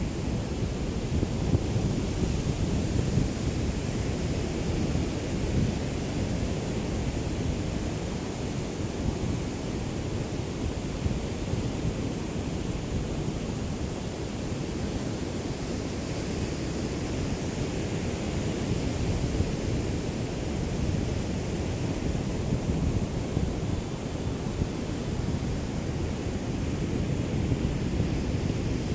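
Small sea waves lapping on a beach, a steady wash of surf with a low rumble of wind on the microphone.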